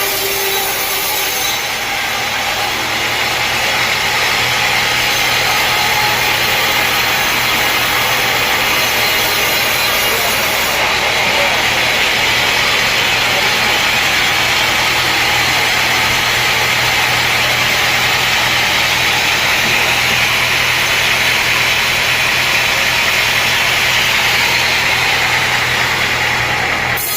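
Sawmill running with its blade cutting through wood, a steady hissing saw noise over a continuous engine drone.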